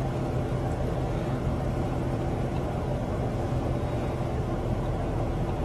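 A vehicle engine running steadily, a low hum with a haze of road or wind noise.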